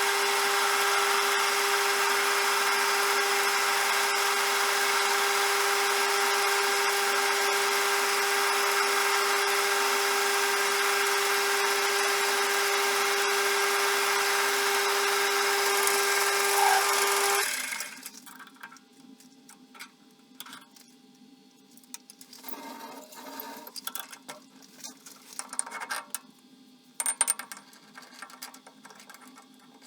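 CJM360 metal lathe running steadily with a constant whine, stopping abruptly about two-thirds of the way through. After it stops there are only faint scattered clicks and knocks.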